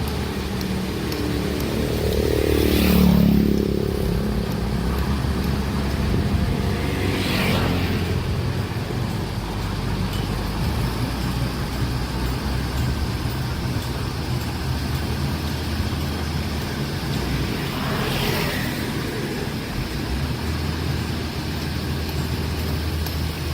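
Heavy diesel engines running with a steady low rumble. About three seconds in, one vehicle passes close, loudest and dropping in pitch as it goes by, and two fainter passes follow later.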